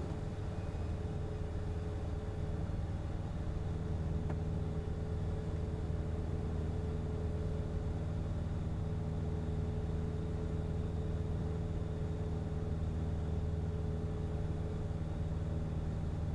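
Cessna 177RG Cardinal's engine and propeller running with a steady drone, heard inside the cockpit on final approach with gear down and flaps 10.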